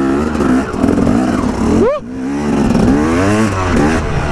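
Motorcycle engine revving, its pitch rising and falling, with a sharp rise just before two seconds in and then a brief drop.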